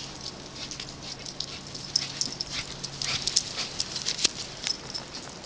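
Footsteps crunching in fresh snow as the dogs and their owner move off: a run of quick, irregular crunches.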